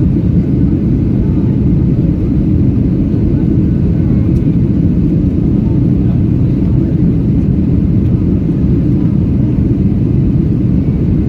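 Airliner's steady, loud low rumble of engines and airflow, unchanging throughout.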